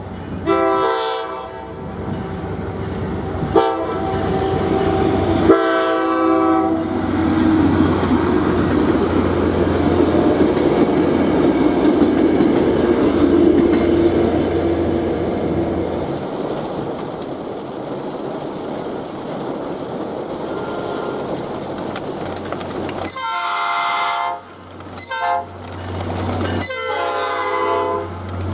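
Passing train's multi-chime locomotive horn sounding three blasts, then the rumble and wheel clatter of the train going by, then the horn sounding again several times near the end.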